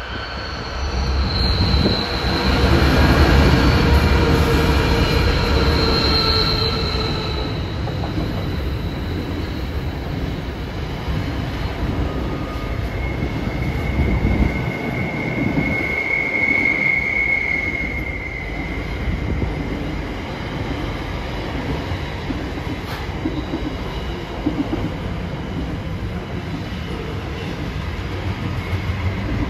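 Pacific National NR class diesel-electric locomotives hauling a container freight train pass close by, loudest in the first several seconds. The container wagons then roll past with a steady rumble and wheels squealing on the curve, a high squeal loudest about halfway through.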